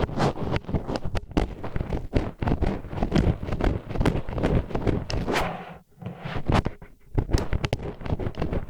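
Disposable wooden chopsticks scraping and grinding against an ASMR ear microphone in quick, repeated strokes, several a second, with a brief pause about six seconds in.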